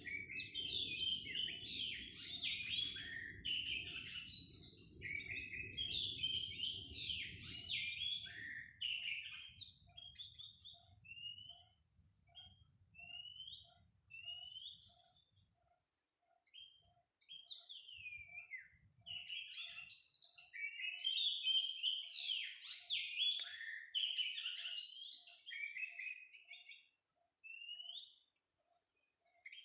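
Oriental magpie-robin (kacer) singing: rapid, varied whistled phrases, dense at first, thinning to scattered single notes, then a second busy burst of song about two-thirds of the way through.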